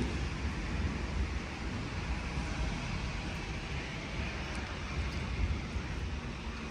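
Thunder rolling on as a long low rumble, slowly dying away over a few seconds.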